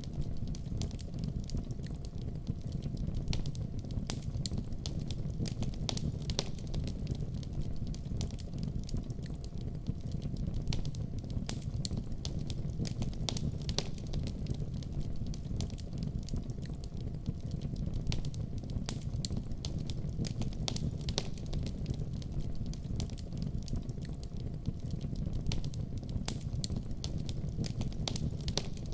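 Wood fire crackling: a steady low rumble of burning with many small, irregular pops and snaps.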